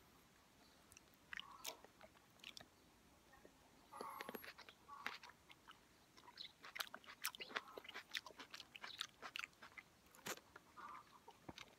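Close-up sounds of a mouth chewing a ripe, juicy cherry plum: quiet wet clicks and squelches, coming thicker and faster in the second half.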